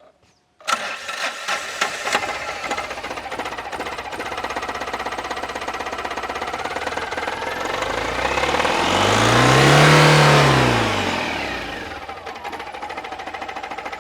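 800 cc two-cylinder turbocharged common-rail diesel engine from a Tata Ace Dicor starting up, catching less than a second in and settling to a steady idle. It is revved up and back down to idle between about eight and twelve seconds in.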